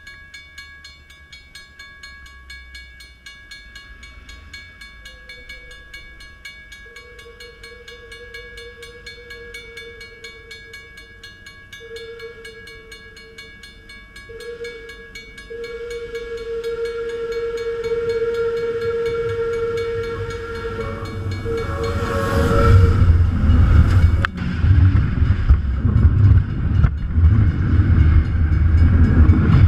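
Union Pacific rotary snow plow train (ex-Southern Pacific) approaching. Its locomotive horn sounds in several long blasts, growing louder as the train nears. About three quarters of the way in, a heavy rumble of wheels and machinery takes over as the train runs directly overhead.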